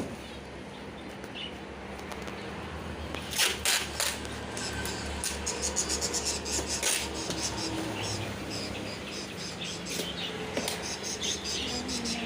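Small caged birds chirping in quick, high, short calls, with a couple of sharp clatters about three and a half seconds in.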